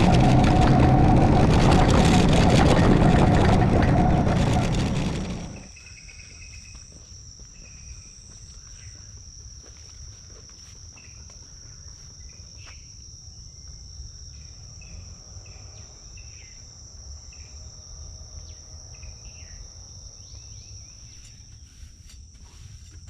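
A loud, dense noise fades out about five seconds in. It leaves a steady, high-pitched drone of insects, with short chirps scattered over it and a low rumble beneath.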